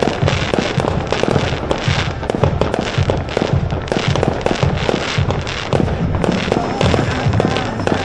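Aerial fireworks bursting in quick succession: a dense, continuous run of bangs and crackles, several a second, over deep thumps.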